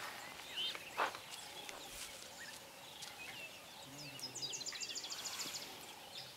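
Birds calling in dry bush: scattered short chirps, with a quick run of about ten high chirps about halfway through. A single sharp snap or footstep about a second in.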